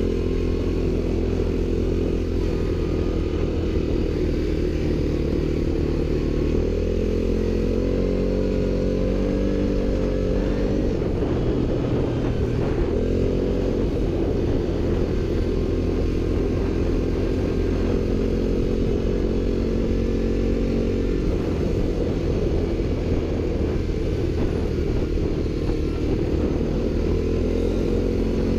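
ATV engine running while riding, its pitch rising and falling as the throttle changes, with a rougher, clattering stretch around the middle.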